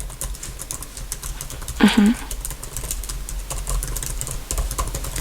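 Computer keyboard typing: a fast, steady run of close-miked keystrokes, with a short murmur of voice about two seconds in.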